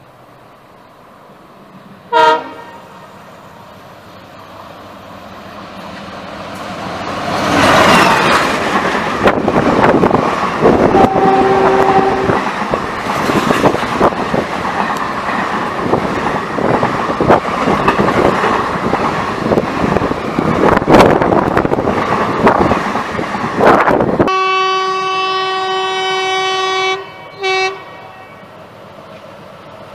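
An Indian express train's horn gives a short blast, then the train comes up and passes at high speed: a loud rush of wheels on rail with rapid clickety-clack over the rail joints for about fifteen seconds, with a brief horn partway through. The sound cuts off suddenly, and a second train's horn sounds a long blast followed by a short toot.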